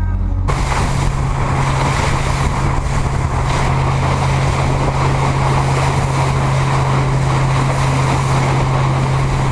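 Motorboat under way: the engine runs at a steady hum under heavy rushing wind and water noise, which cuts in suddenly about half a second in.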